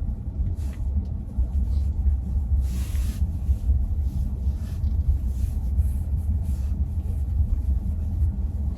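Steady low rumble of a car driving, heard from inside the cabin, with a few faint hissing swells of road or wind noise.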